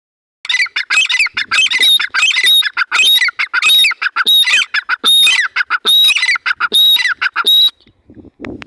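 Teetar (francolin) calling loudly: a rapid run of harsh, repeated notes that starts about half a second in and stops about a second before the end.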